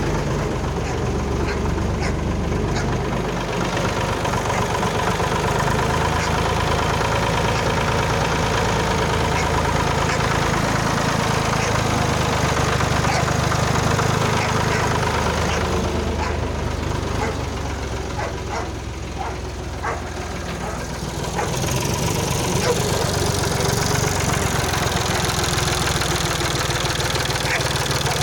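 Ursus C-360 tractor's four-cylinder diesel engine idling steadily with a knocking diesel clatter; it drops slightly in loudness for a few seconds about two-thirds through, then runs on as before.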